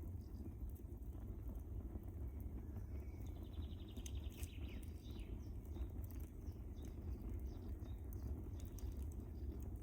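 Wood fire burning in a fireplace: a steady low rumble of the flames with scattered sharp crackles and pops. A brief high, rapidly pulsing sound comes in about the middle.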